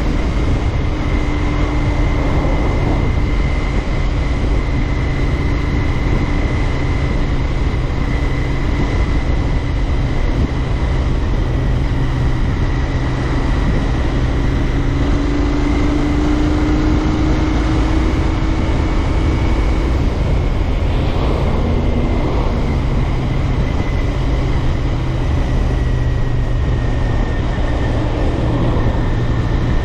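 Royal Enfield Interceptor 650's 648 cc parallel-twin engine running at a steady cruise, with wind and road noise over a GoPro microphone.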